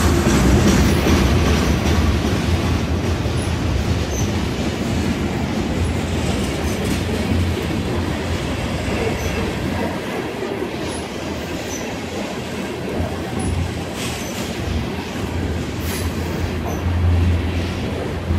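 Covered hopper cars of a freight train rolling past at track side: a steady rumble and clatter of steel wheels on rail, with brief high wheel squeaks now and then.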